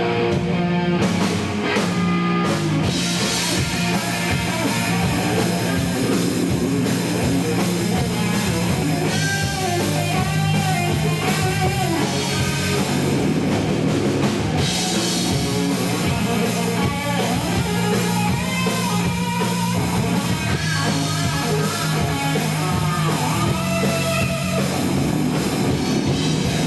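Live rock band playing: electric guitar and drum kit over a steady bass line, at constant loudness. The audience recording is rough and distorted.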